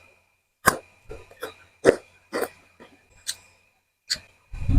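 Close-miked eating sounds: a run of sharp, wet chewing clicks and crunches, about two a second, with a heavier low thump near the end.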